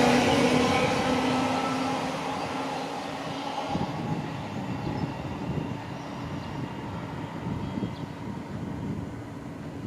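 A train passing through the station and moving away: its running noise and tones fade over the first few seconds, then a quieter steady rumble remains.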